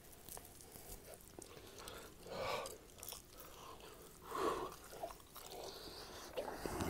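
A person chewing and biting raw ribeye steak: soft, wet mouth sounds with small clicks as the meat and fat are gnawed off the bone. Two louder, longer mouth sounds come about two and a half and four and a half seconds in.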